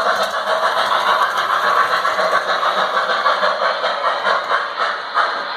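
Model train running on its track with a steady mechanical rattle of many fine clicks, easing off a little near the end.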